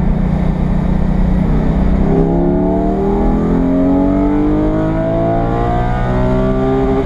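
Porsche Cayman GT4's naturally aspirated 4.0-litre flat-six, heard from inside the cabin. It runs at a steady note at first, then from about two seconds in pulls hard through a gear, its pitch rising steadily under acceleration.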